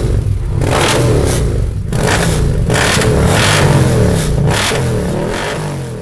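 Indian Motorcycle V-twin with a performance exhaust being revved repeatedly, the pitch rising and falling with each blip of the throttle.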